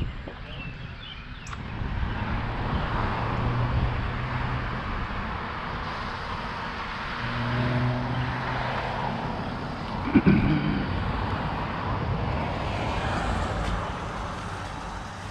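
Motor traffic passing, its noise swelling and fading, over the wind and rolling noise of a bicycle ride. There is a short, loud pitched sound about ten seconds in.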